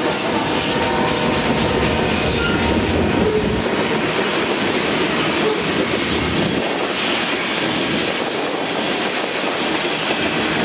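Freight train's covered hopper cars rolling past, a steady rumble with wheels clattering over the rail joints.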